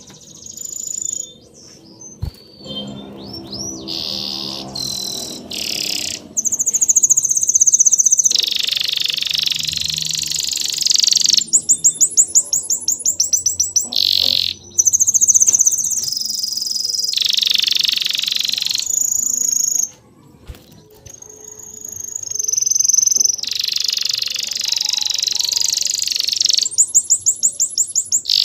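Songbirds singing: high-pitched whistled songs and rapid trills that start and stop abruptly, one after another. Near the start, a lower sound with several steady tones lies beneath them.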